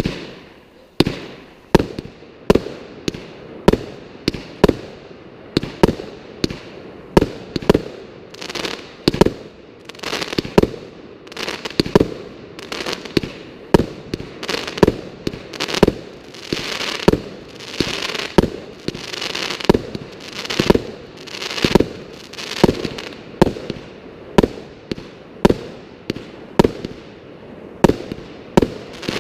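A 200-gram consumer firework cake (a multi-shot 'Thunder Road' finale cake) fires a long volley of sharp shots in quick succession, more than one a second. In the middle stretch a hissing haze fills the gaps between shots.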